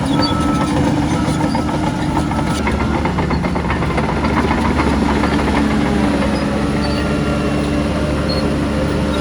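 Heavy earthmoving machinery with a diesel engine running steadily, with some metallic clanking about a second to three seconds in.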